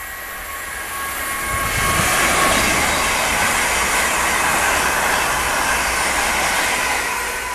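London Northwestern Class 350 Desiro electric multiple unit passing at speed. A rush of wheel and track noise swells about two seconds in, holds for several seconds as the carriages go by, then eases off near the end.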